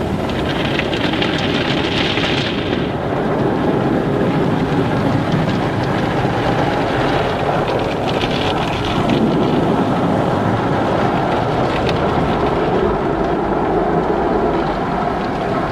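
Car wash running: a steady, dense rush of water spray and machinery, with brief brighter hissing surges of spray near the start and about halfway through.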